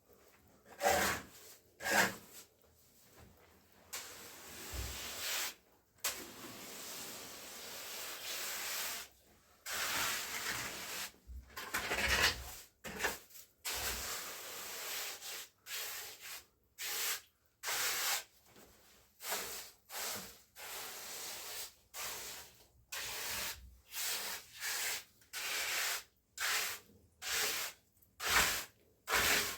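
A hand tool scraping and rubbing over a rough surface. There are a few separate strokes at first, then several seconds of continuous scraping, then short strokes at about one a second.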